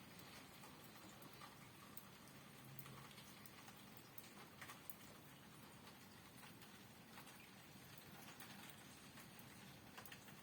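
Light rain, faint: scattered raindrops tapping irregularly over a soft steady hiss.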